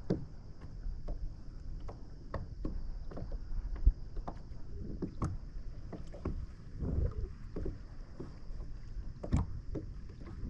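Water lapping against a kayak's hull, with scattered light knocks and clicks from the boat.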